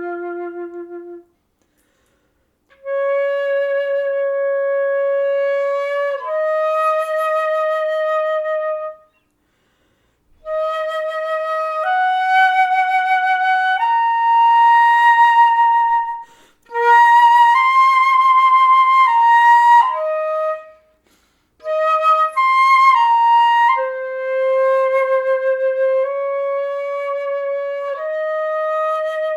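Solo flute improvising slow phrases of long, held notes that step up and down in pitch, with short silent gaps between phrases.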